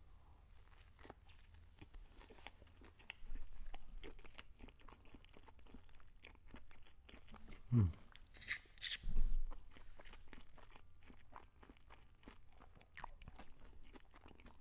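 Close-miked crunching and chewing as a McDonald's crispy fried chicken sandwich is bitten into and eaten, the breading crackling in many small clicks. About eight seconds in comes a short throaty sound, then two quick sharp coughs.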